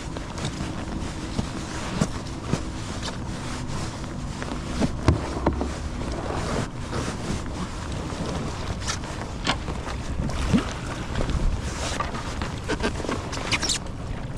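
Kayak paddle strokes splashing in river water, irregular and about a second apart, over a steady wash of moving water, with wind on the microphone.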